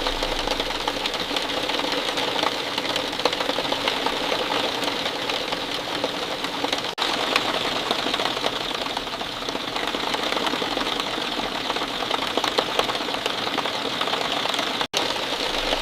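Steady falling rain, a dense patter of countless drops. It drops out for an instant about seven seconds in and again near the end.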